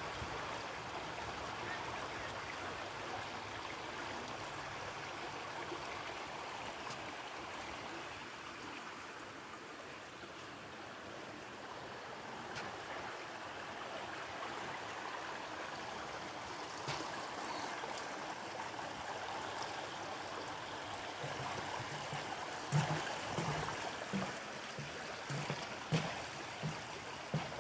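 Steady rushing of flowing water from a stream or waterfall, an even hiss with no break. A few short low thumps come in near the end.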